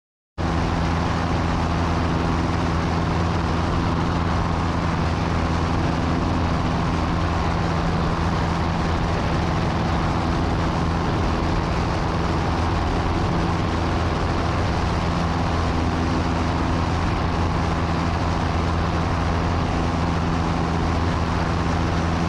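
Small plane's engine and propeller droning steadily in the cabin while in flight, with a low, even hum; the sound cuts in abruptly about half a second in.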